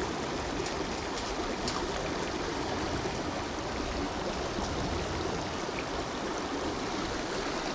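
River water running steadily over rocks, with a few faint ticks early on.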